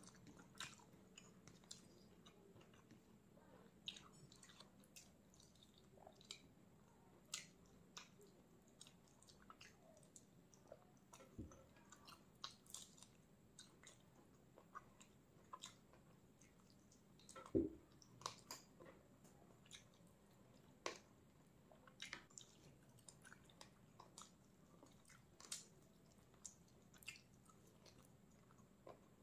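Close-miked eating: a person chewing, with soft wet mouth clicks and squishes at irregular intervals and a louder one about eighteen seconds in.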